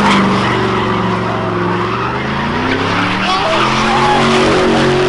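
Car engine held at high revs with the tyres screeching: a burnout. The engine pitch climbs a little past halfway and then holds high.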